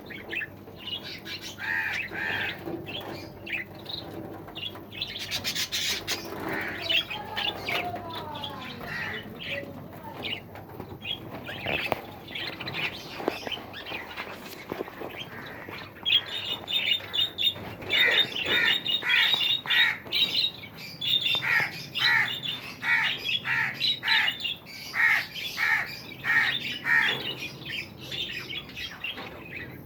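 Mixed aviary birds chirping and squawking, calls overlapping. About halfway through, a run of sharp calls repeating roughly twice a second takes over.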